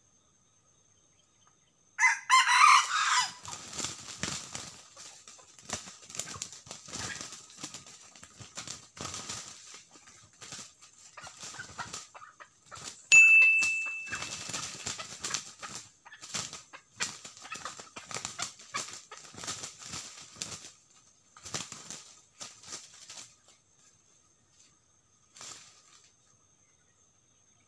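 Two red junglefowl roosters fighting in dry leaf litter: repeated bursts of wing flapping and scuffling, starting with a loud burst a couple of seconds in. A sharp call comes about halfway, and the scuffling stops a few seconds before the end.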